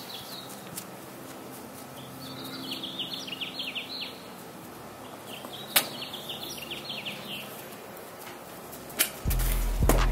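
Quiet outdoor background with a small bird singing two runs of quick, falling chirps. Near the end come a couple of sharp knocks, then a loud, deep low tone.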